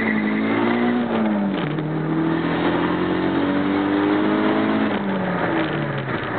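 Turbocharged 2.0 L four-cylinder of a 1997 Eagle Talon TSi, fitted with a large SCM5031E turbo at 21 psi, heard from inside the cabin under hard acceleration. The revs climb, drop with a gear change about a second and a half in, climb again through the next gear, then fall away near the end.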